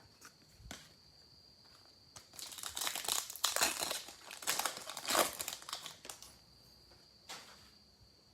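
Foil wrapper of a trading card pack crinkling and tearing as it is ripped open, a run of crackly bursts lasting about four seconds, after a single soft knock near the start.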